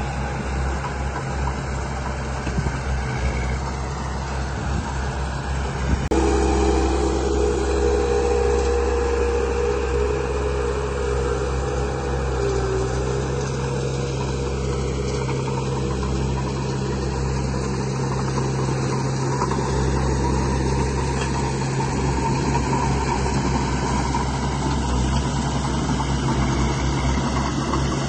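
Radio-controlled model construction vehicle running, with a steady low engine-like hum. About six seconds in, a louder motor whine joins it and keeps going.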